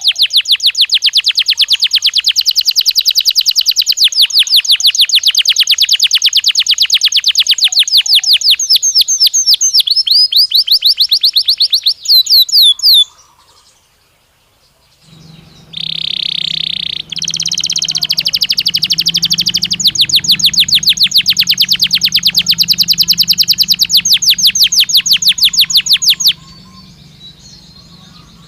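Canary singing: long, very rapid trills of repeated notes that quicken just before a pause of about two seconds in the middle, then a steady held note and another long trill that stops a couple of seconds before the end. A low hum runs under the second half.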